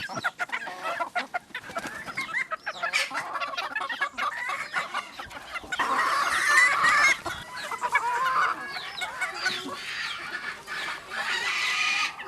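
Chickens clucking and calling in short bursts, with one louder, longer call from about six seconds in that lasts around two and a half seconds.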